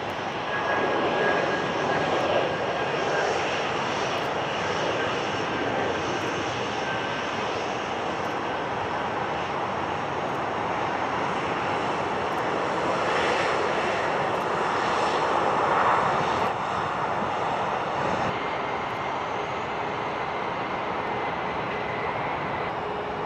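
Airliner engines at an airport, a continuous rush of jet noise with a thin high whine at times. It swells about a second in and again in the middle, then eases a little near the end.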